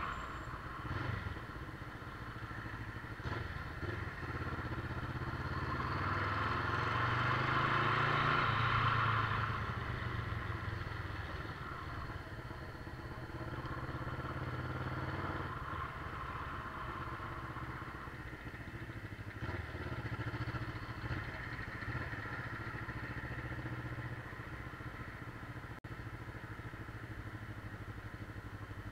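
Motorcycle engine running steadily while riding, growing louder for a few seconds about six seconds in before settling again.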